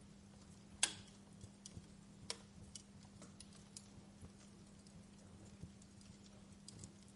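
Campfire crackling: scattered irregular pops and snaps of burning wood, the loudest about a second in, over a steady low hum.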